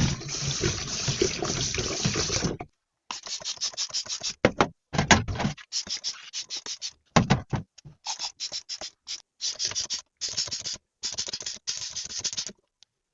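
Kitchen tap running into the sink, cut off about two and a half seconds in. A long run of short, quick scrubbing strokes follows, several a second in uneven groups, from dishes being washed by hand in rubber gloves.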